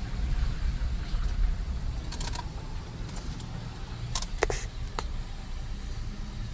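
A car driving on a flooded road: a steady low rumble under a hiss, with a few short clicks and a brief chirp about four and a half seconds in.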